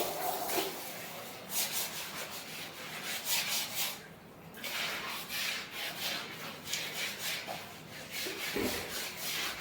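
Buffalo being milked by hand: milk squirting from the teats in quick, rhythmic hissing strokes, coming in runs with short pauses between them.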